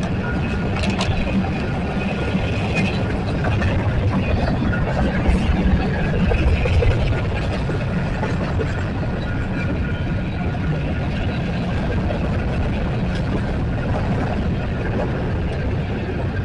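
Union Pacific freight train passing the crossing: a steady rumble of the rolling cars under the constant low drone of the diesel locomotives, with a slight swell about halfway through.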